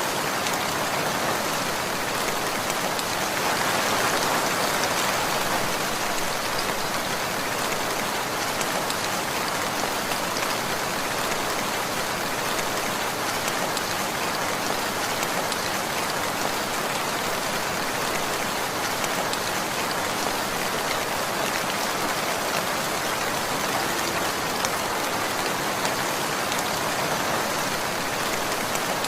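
Steady rainfall, drops pattering on a surface in an even, continuous hiss.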